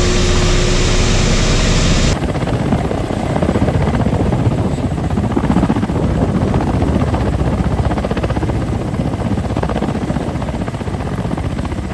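Ka-52 attack helicopter's coaxial rotors and turbine engines running steadily. A hiss cuts off abruptly about two seconds in, and the rotor and engine sound carries on.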